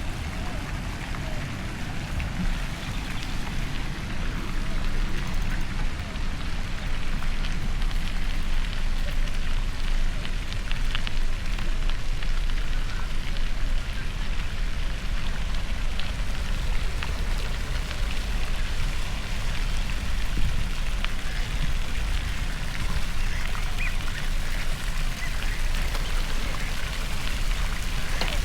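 Wind rushing over the microphone while cycling: a steady rumbling hiss, heaviest in the low end, growing a little louder a few seconds in.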